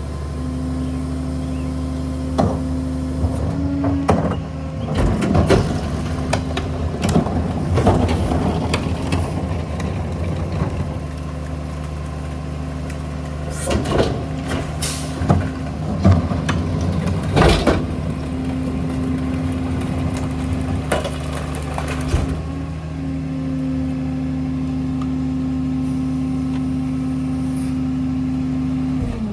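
Ford F-750 rear-loader garbage truck's engine running steadily, with repeated loud bangs and metallic clatter in several bursts from the rear loader at work.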